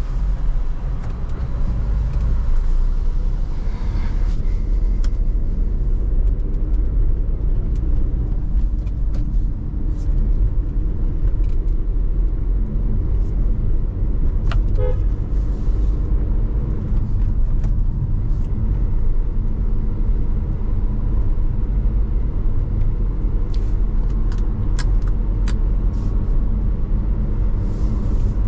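Car driving on the road, heard from inside the cabin: a steady low rumble of engine and tyres with scattered light ticks, and a brief tone about halfway through.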